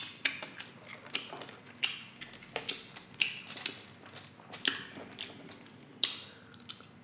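Close-miked chewing and mouth smacking while eating glazed pork ribs, heard as irregular sharp clicks several times a second.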